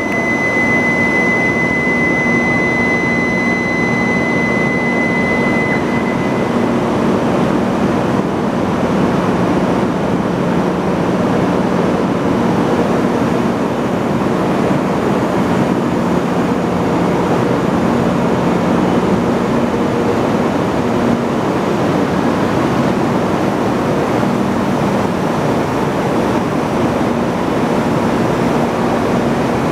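E5-series Shinkansen train pulling out of the platform, a steady loud rumble and rush as the cars pass close by. A steady high electronic tone sounds for about the first six seconds, then stops.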